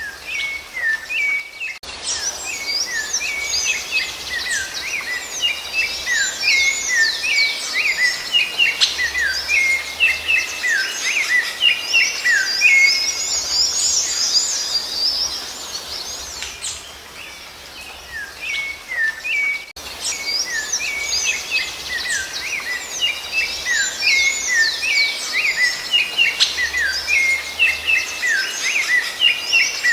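Rufous-bellied thrush (sabiá-laranjeira) singing, a dense run of quick whistled notes, some sliding down and some up. The song breaks off abruptly twice and starts over, as in a looped recording.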